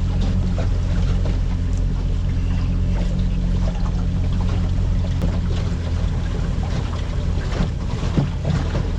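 A boat's engine running steadily under way, a constant low hum, with faint water and wind noise over it.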